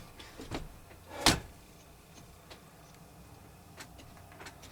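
Workshop tool handling: one sharp clack about a second in, among a few faint ticks and clicks.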